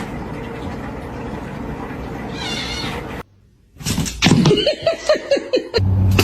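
Cat meowing: one short meow over a steady background hiss, then, after a brief silence, a rapid run of short, sharp cries.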